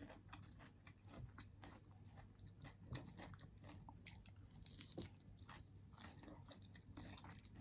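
Faint chewing and crunching of food close to the microphone, a scatter of small clicks with a couple of louder crunches about three and five seconds in.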